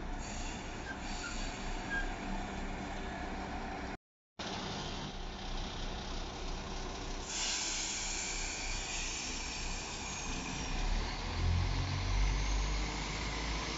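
Diesel multiple unit at a station platform, with a steady hiss of released air starting about halfway through and a low engine rumble building near the end.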